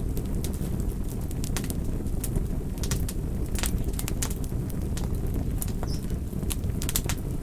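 Wood campfire burning: a steady low rumble of flames with frequent, irregular sharp crackles and pops from the burning wood.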